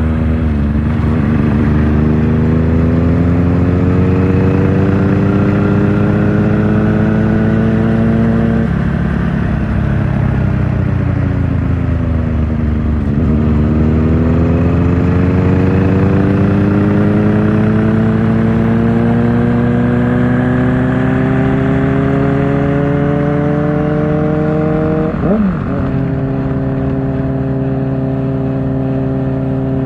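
Kawasaki Ninja ZX-4R's inline-four engine through an Akrapovic exhaust under way. The revs climb steadily for several seconds, drop abruptly and fall away as the throttle closes, then climb again through a long pull. Near the end there is a brief sharp rev spike, after which the engine holds a steady note.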